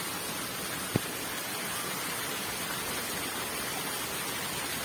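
Artificial waterfall's water rushing steadily, with a single sharp click about a second in.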